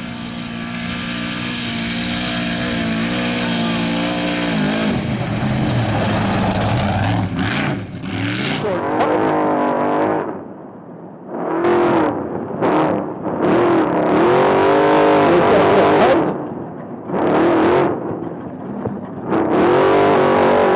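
Off-road race truck engine under hard throttle: a steady drone for the first few seconds, then repeated revving, the pitch climbing and falling with several brief lifts off the throttle.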